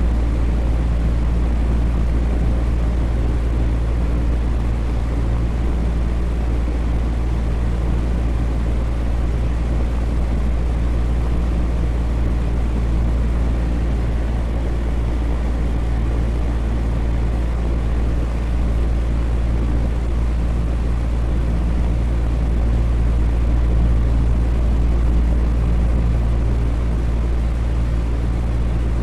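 Electric fan running steadily: an even rush of air over a deep, constant low hum, with no change in speed.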